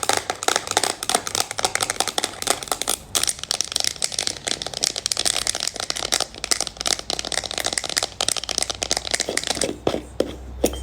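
Long manicured fingernails tapping and scratching quickly on a container or its packaging, making a dense, continuous run of clicks. There is a brief pause about three seconds in, and a few separate taps near the end.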